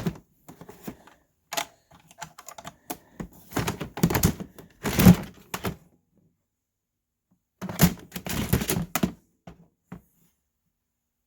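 Plastic toys and boxes being handled and shifted: clusters of quick knocks, clicks and clatter, in a long spell and then a second shorter one, stopping about ten seconds in.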